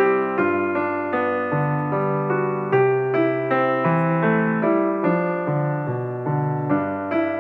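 Background piano music: a keyboard playing slow chords and notes at an even pace, each struck note fading before the next.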